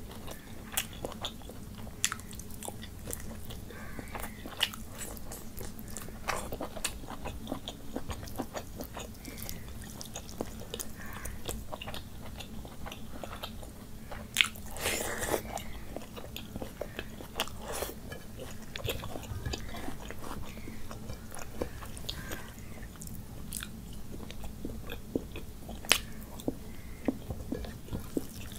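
Close-miked eating of curry and rice by hand: wet chewing and lip smacks with many sharp mouth clicks, a louder burst of chewing about halfway through, and fingers mixing rice on the plate near the end.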